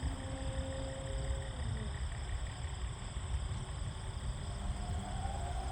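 The electric motor and propeller of a 68-inch Super Decathlon RC plane whining ("screams") in flight. The tone drops in pitch and fades about a second and a half in as the plane passes, and a higher whine rises again near the end as it comes back around, over a steady low rumble.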